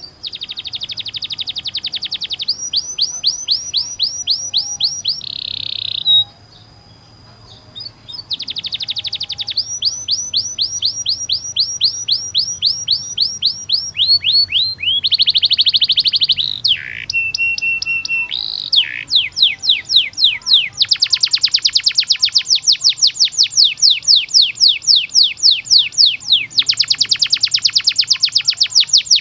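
Domestic canary singing a long song of fast repeated-note rolls and trills, broken by a pause of about two seconds near the start and ending in long, very rapid rolls.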